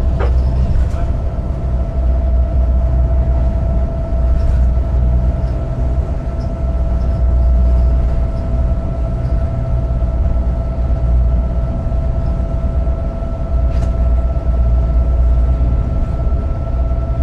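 EMD GP38-2 diesel-electric locomotive running under way, heard from inside the cab: a steady low engine rumble with a steady whine above it.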